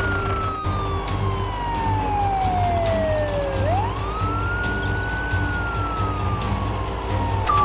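Police siren wailing: one tone slides slowly down in pitch, sweeps quickly back up about three and a half seconds in, then slides slowly down again. A steady low hum runs underneath.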